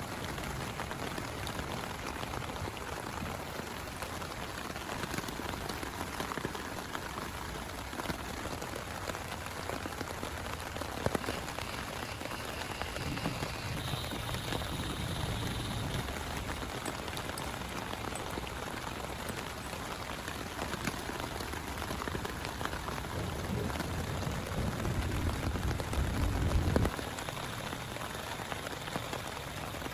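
Heavy rain falling steadily as an even hiss. A low rumble swells about halfway through and again near the end, the second one louder and cutting off suddenly.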